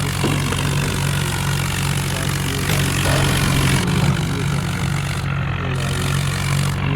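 Vehicle engines running steadily and loudly, a continuous low engine hum under a broad mechanical noise, as a tractor and an SUV pull against each other in a tug of war.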